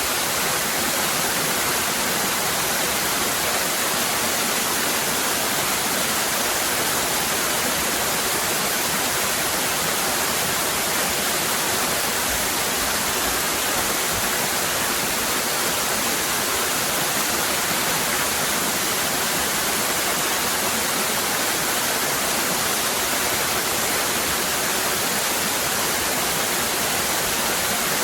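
Waterfall cascading: a steady, unbroken rush of falling water with a hissy, bright character.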